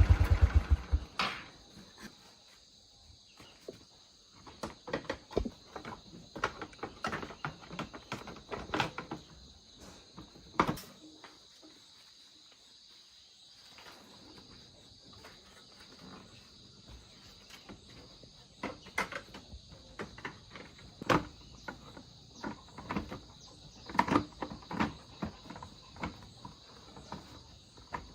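A motorcycle engine shuts off and winds down in the first second. Then a steady chorus of crickets is heard, with scattered knocks and clicks of metal being handled.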